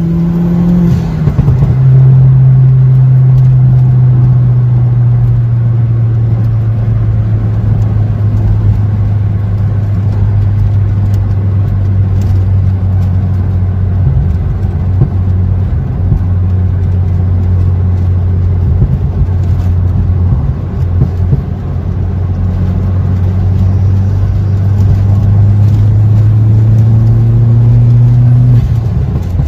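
VW Polo GTI's 1.8-litre turbocharged four-cylinder engine, fitted with a 67 mm exhaust and downpipe, heard from inside the cabin while driving. The engine note climbs and drops about a second in as a gear is changed, then holds a steady cruising drone that sinks slowly, climbs again over the last few seconds and drops at the very end with another shift.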